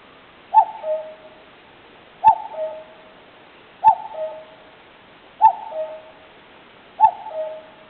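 Common cuckoo calling its two-note "cuck-oo", a higher note dropping to a lower one, five times at an even pace of about one call every one and a half seconds.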